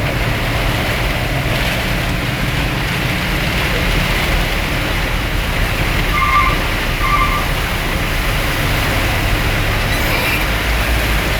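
Steady hiss of heavy rain mixed with the rumble of road vehicle noise. Two short beeps sound a little past the middle, about a second apart.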